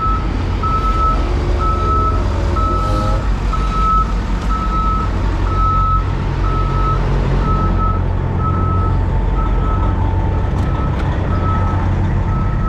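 Truck backup alarm beeping steadily, about one and a half beeps a second, over a diesel truck engine running slowly while reversing into a loading dock.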